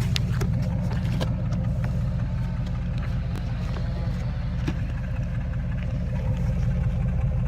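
Truck engine idling steadily with an even low rumble, a few light clicks sounding over it.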